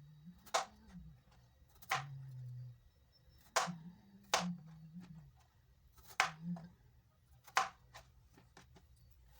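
Kitchen knife chopping through vegetables onto a cutting board: single sharp chops, slow and uneven, roughly one every one to two seconds.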